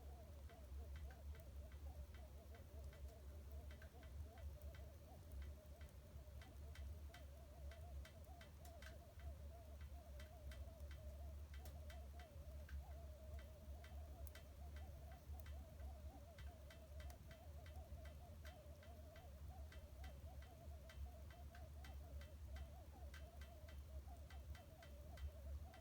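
Wood fire in a fireplace crackling quietly, with frequent small irregular pops and snaps over a faint low hum.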